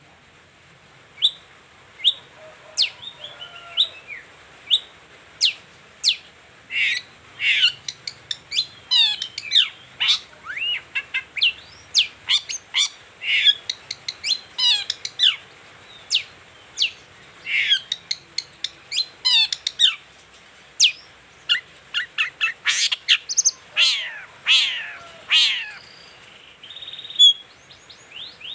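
Long-tailed shrike (cendet) singing: a run of sharp, high notes that sweep downward, mixed with short chirps and trills. The notes come about one a second at first and grow thick and fast after a few seconds.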